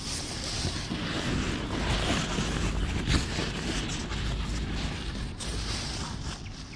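Wind buffeting the microphone in a rainstorm: a shifting low rumble over a steady rushing hiss, with a few faint knocks.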